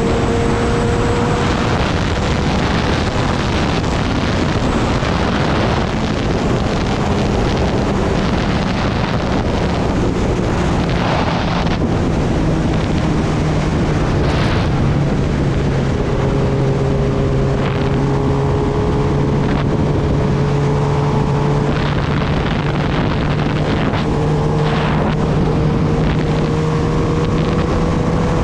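Kawasaki Ninja ZX-10R's inline-four engine running at a steady cruise, its note holding nearly constant and creeping up slightly near the end, under heavy wind rush on the microphone.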